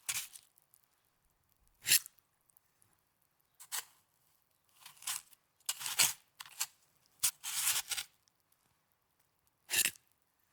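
Snow crunching as it is pressed and handled, in short separate crunches with quiet gaps between, about eight of them, the loudest about two and six seconds in.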